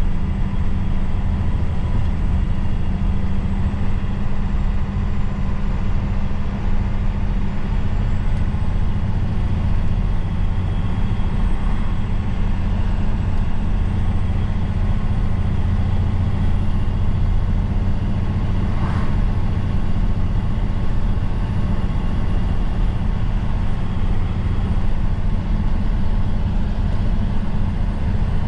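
Truck's diesel engine running steadily on the move, a constant low drone. There is one short knock about two-thirds of the way through.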